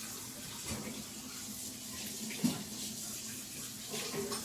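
Water running steadily from a kitchen tap, with a couple of light knocks about a second and two and a half seconds in.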